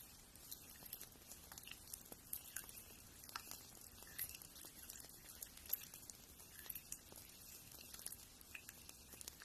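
Faint, irregular scratching with light ticks as fingernails are ground down.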